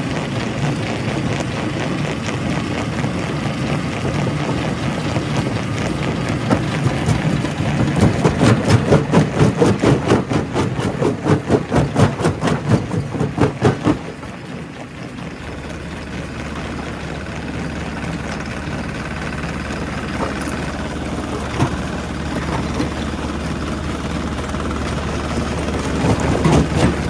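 Quarry rock-crushing machinery running. Through the middle there is a rapid, even knocking of about three strikes a second. It stops suddenly and gives way to a quieter, steady running hum.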